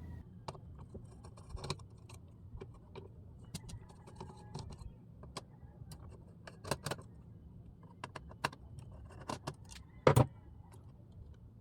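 Scattered clicks and light metallic rattling, like small parts or tools being handled, with one louder sharp click about ten seconds in.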